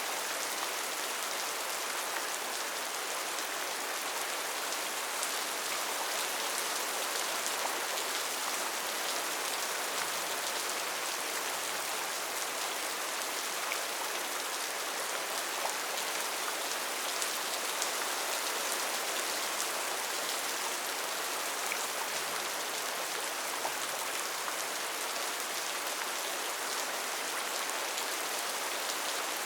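Steady heavy rain falling on foliage, a dense even hiss with scattered individual drops ticking through it.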